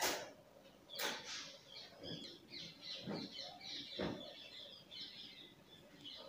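Faint bird chirping in the background, with a soft knock about once a second during the first four seconds.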